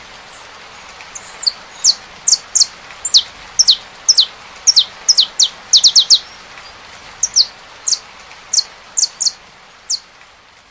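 Saffron finch singing a series of sharp, high, downward-sweeping chirps, some in quick runs of three or four, over a steady hiss of rain. It all fades out near the end.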